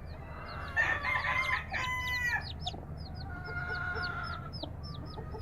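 Newly hatched chicks peeping continually in short, high, falling peeps, while the broody mother hen clucks over them. Her lower calls come loudest from about a second in, and a longer held call follows near the middle.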